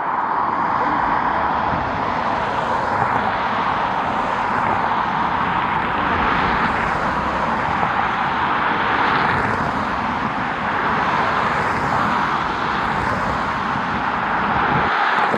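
Jet airliner engines giving a loud, steady noise that swells and eases slightly.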